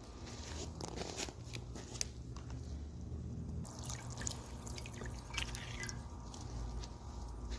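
Solar fountain pump spraying water in a glass bird bath, the spray falling back into the basin as irregular splashes and drips.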